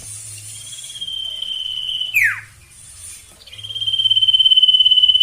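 Sirtu bird in breeding condition calling: a long, fast-pulsing trill held on one high pitch, swelling in loudness and ending in a sharp downward slur. It comes twice, the second trill louder and ending right at the close.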